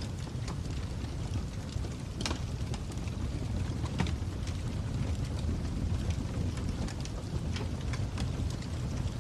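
Fire crackling: a steady low rumble with irregular sharp pops and snaps scattered throughout, a louder one about two seconds in and another about four seconds in.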